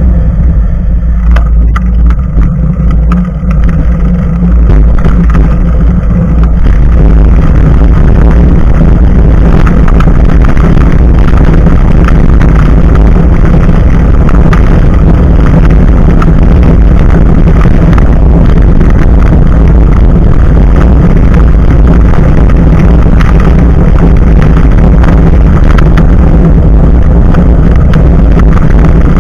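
Heavy wind buffeting and tyre rumble picked up by an action camera's microphone mounted just above a moving bike's front tyre, steady and very loud, getting fuller about seven seconds in.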